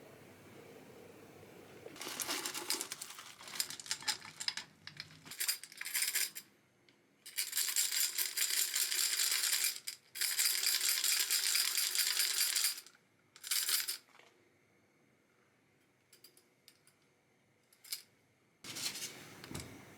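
Rock sugar poured into a glass jar in several runs of a few seconds each, the hard lumps clattering and clinking against the glass.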